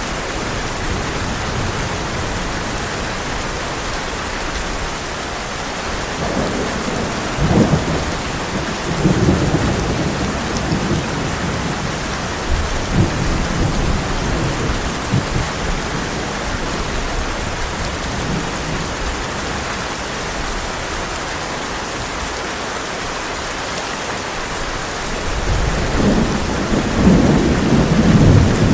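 Heavy rain drumming steadily on a tin roof, with thunder rumbling low a few times in the first half and again, louder, near the end.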